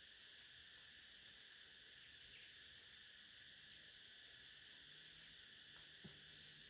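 Faint, steady insect chorus, a continuous high-pitched drone of crickets or cicadas. A faint low hum joins about two-thirds of the way through.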